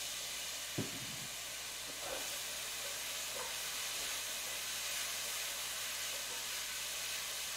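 Garlic and onions sizzling steadily in a sauté pan as they are stirred with a wooden spoon. A brief knock sounds about a second in.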